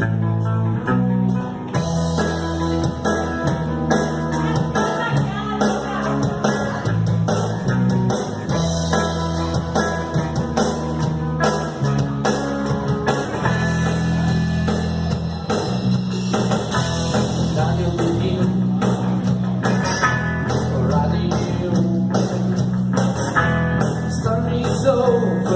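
Live rock band playing an instrumental intro with guitar over a steady drum-kit beat and a moving low bass line.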